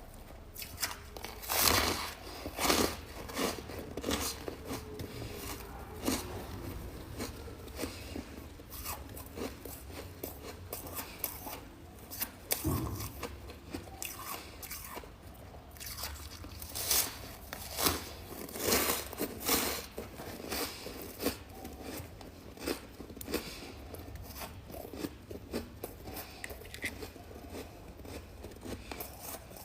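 Freezer frost chunks being bitten and chewed, with a run of irregular crisp crunches that come in louder clusters near the start and again about two-thirds of the way through.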